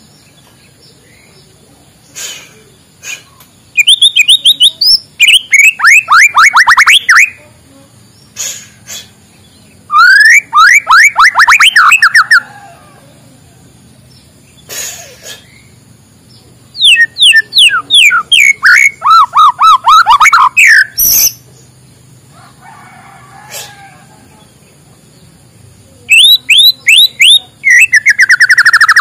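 White-rumped shama (murai batu) singing: four loud bouts of fast, rapidly repeated downward-sliding notes, with short clicks and chirps in the pauses between them.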